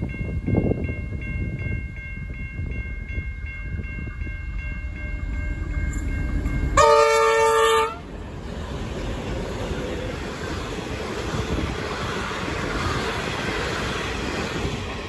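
Level crossing bell dinging about twice a second as a train approaches. Then the leading T class diesel locomotive sounds its horn in one loud blast of about a second, and the locomotives and carriages run past with engine and wheel noise on the rails.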